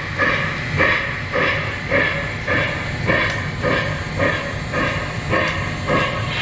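Sound system of a model steam locomotive playing steady, rhythmic steam chuffs, about two a second, with a couple of brief ticks.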